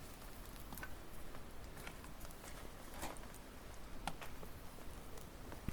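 Wood fire burning, with irregular crackles and a few sharp snaps from the burning firewood over a low steady hiss; the loudest snaps come about three and four seconds in.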